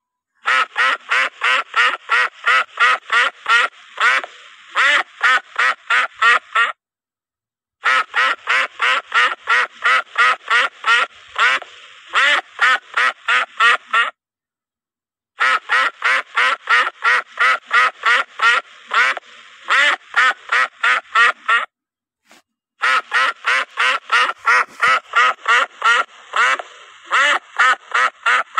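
Duck quacking in fast, evenly spaced series of about three or four quacks a second. There are four runs of six seconds or so, with about a second of silence between them.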